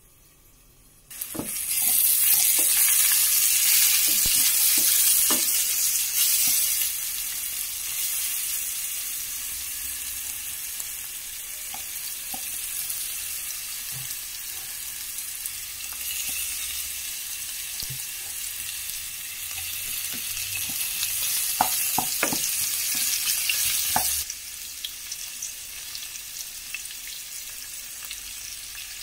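Sliced red onion and mushrooms sizzling in a hot stainless steel pan. The hiss starts suddenly about a second in, as the onion goes into the hot oil, and is loudest for the first few seconds before settling, with scattered knocks and scrapes of the utensil against the pan. Near the end it drops suddenly to a quieter sizzle.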